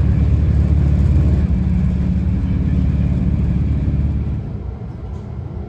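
Low, steady rumble of a TrenItalia intercity train running, heard from inside the passenger carriage. It becomes noticeably quieter about four seconds in.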